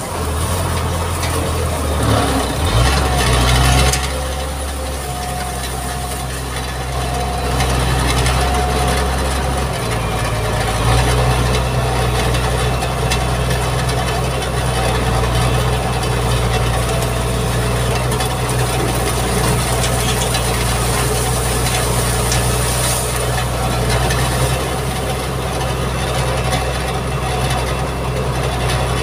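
Mitsubishi MG330 motor grader's diesel engine running steadily, with a louder, rougher stretch about two to four seconds in and a change in its note about ten seconds in.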